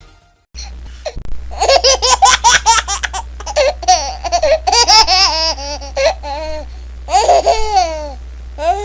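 A baby laughing in repeated strings of quick, high-pitched laughs, with a steady low hum underneath.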